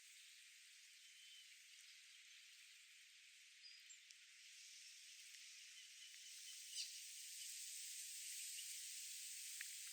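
Near silence: faint steady outdoor hiss, growing slightly louder after the middle, with a few faint ticks and short high chirps.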